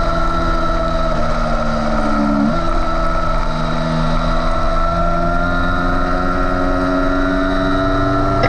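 Yamaha YZF-R3's parallel-twin engine running hard at high revs, recorded onboard with wind noise. Its pitch changes abruptly about two and a half seconds in, then climbs slowly.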